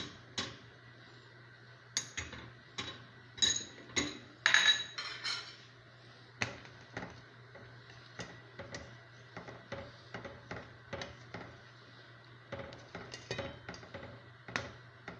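A spoon clinking and knocking against a cooking pot as the sauce is stirred, a string of irregular sharp strikes, some ringing, over a faint steady low hum.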